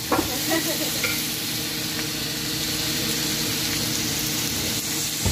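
Beef strips with green pepper and red onion sizzling steadily as they sear on medium-high heat in a non-stick frying pan.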